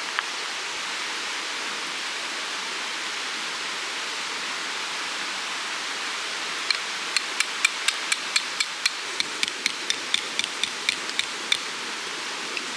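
A hammer driving a metal tent peg into the ground, with a quick run of about twenty ringing strikes, some four a second, starting about halfway through. A steady rushing hiss of wind or running water lies beneath.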